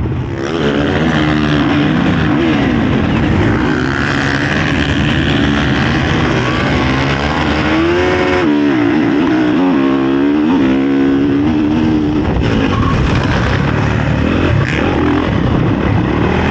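Honda CRF450 four-stroke single-cylinder motocross engine at hard throttle off a practice start, revving up and shifting through the gears so its pitch climbs and drops again and again.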